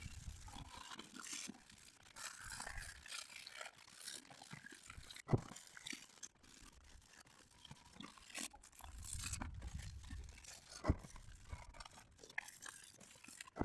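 Hand sanding a factory aluminum truck wheel with sandpaper: faint, irregular scratchy rubbing strokes, with a couple of sharp knocks. This is the final hand sanding that feathers out the marks left by power tools.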